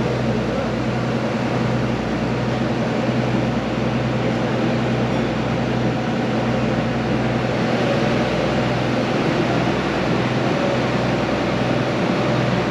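A ferry's engine running steadily on board: a constant low hum with a few held tones, under an even rushing noise.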